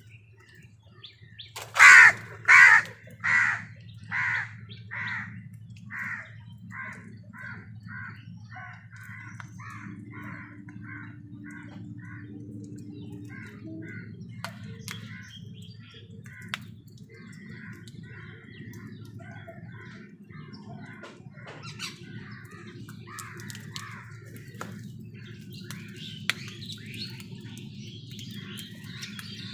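A crow cawing over and over, about a dozen calls a little more than half a second apart, the first few loud and the rest getting fainter. After that, smaller birds chirp softly and irregularly over a steady low background hum.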